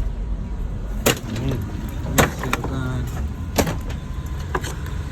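Steady low engine rumble with four sharp knocks spread through it, typical of heavy scrap work on truck cabs.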